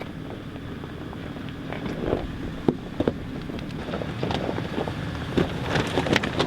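A pickup truck driving: a steady low rumble of engine and road noise, with scattered clicks and rattles that grow more frequent toward the end.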